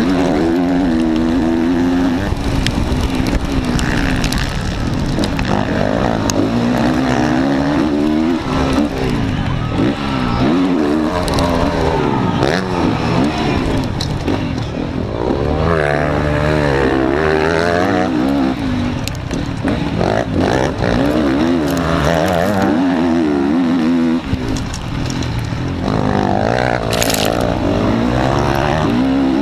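Motocross bike engine under race load, heard from an onboard camera on the bike. The revs climb and drop again and again with throttle and gear changes, over a steady rush of wind noise.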